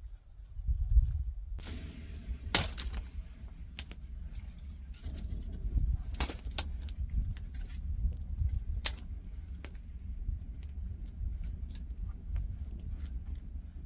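Wood campfire crackling and popping in scattered, irregular cracks, with a steady low wind rumble on the microphone underneath.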